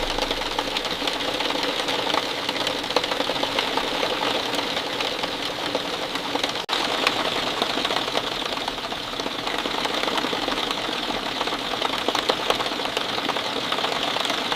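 Steady rain falling, a dense patter of many drops, cutting out for an instant about halfway through.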